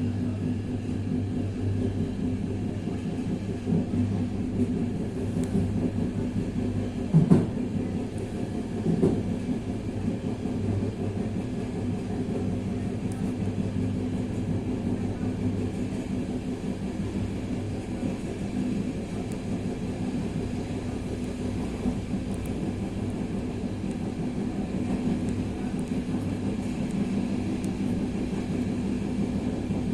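Vagónka Studénka railcar running along the track, heard from on board: a steady low drone from the engine and running gear. Two louder knocks come about seven and nine seconds in.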